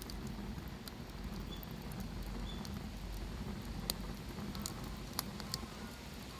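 Wood bonfire crackling: scattered sharp pops over a steady low rumble, a few louder pops a little past the middle.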